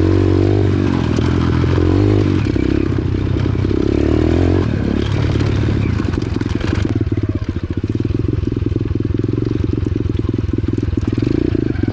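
A 125cc X-Pro pit bike's single-cylinder four-stroke engine running while being ridden. Its revs rise and fall during the first seven seconds or so, then it settles to a steadier, slightly quieter beat.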